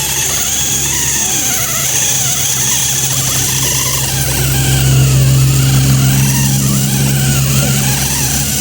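Small motor of a homemade RC toy tractor running: a steady low hum that swells around the middle, with a higher whine wavering up and down as it drives.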